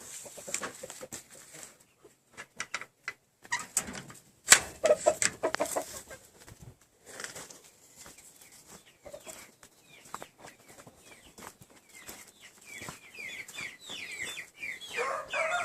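Young chickens peeping in quick, high chirps that fall in pitch, thickening over the last few seconds, with louder, lower chicken calls right at the end. Before that come scattered knocks, scuffs and rustling, with a few short clucks.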